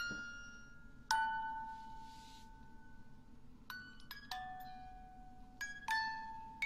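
Bell-like struck notes ringing out and fading one after another, irregularly spaced and sometimes in quick pairs, like a slow chime or music-box tune.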